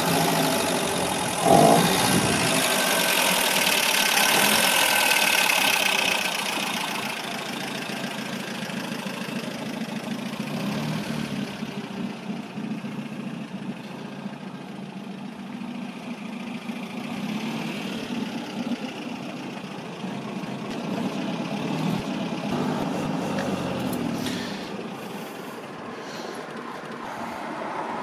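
Engine of a 1947 Alvis TA-14 idling, with one loud thump about a second and a half in. After the thump a hiss runs for a few seconds, then the sound settles into a quieter, uneven hum.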